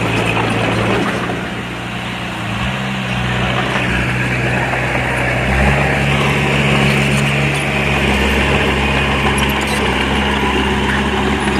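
Diesel engine of earthmoving machinery running steadily, its note shifting to a new pitch about two and a half seconds in and again about halfway through, with a heavier low rumble after the second change.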